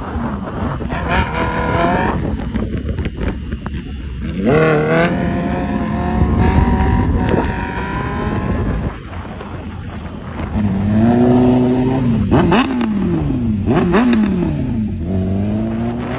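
Sport motorcycle engines running loud and accelerating, their pitch climbing and dropping back as they rev. Near the end the throttle is blipped several times in quick succession, the revs jumping up and falling straight back.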